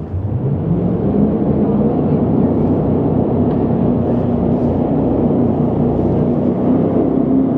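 Jet boat engine speeding up, its pitch rising over the first second, then running steadily at speed.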